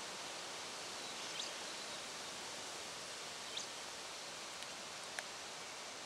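Steady outdoor hiss with a few short, high chirps: one about a second and a half in, another about three and a half seconds in, and a sharper click-like note about five seconds in.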